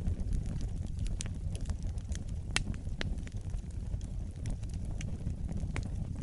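Wood fire burning in a fireplace: a steady low rumble of flames with scattered sharp crackles and pops, the loudest about two and a half seconds in.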